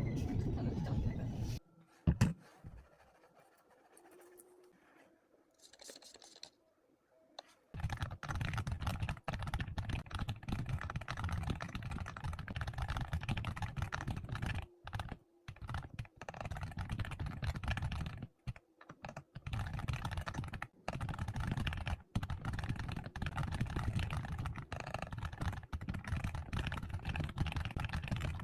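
Typing on a computer keyboard: a quick, steady patter of keystrokes that starts about eight seconds in, after a near-quiet stretch with a single click, and keeps going.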